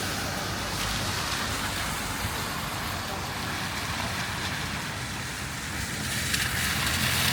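Steady city street noise: traffic running by, with light rain falling.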